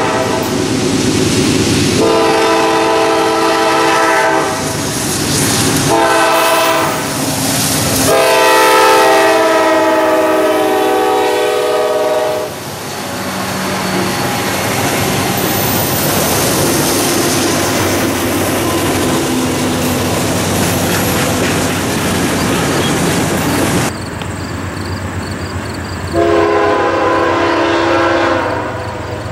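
Diesel freight train's horn sounding the grade-crossing pattern: two long blasts, a short one, then a long one. Then the lead CSX diesel locomotives pass close with a loud steady engine rumble and wheels on the rails. Near the end another train horn sounds one long blast.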